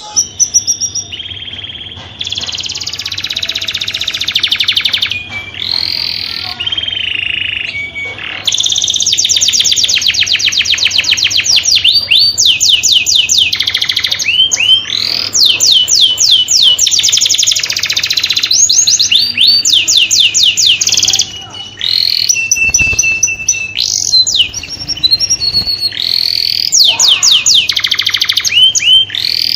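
Domestic canary singing a long continuous song of fast trills and rapid runs of repeated sweeping notes, switching phrase every few seconds, with a brief pause a little past the two-thirds mark.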